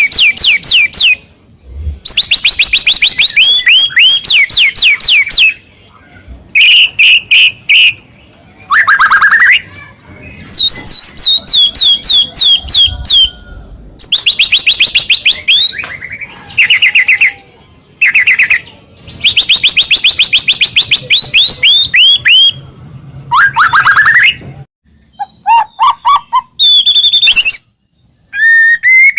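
White-rumped shama (murai batu) song: loud phrases of fast repeated whistled notes that sweep up and down, some as rapid trills, with short pauses between phrases.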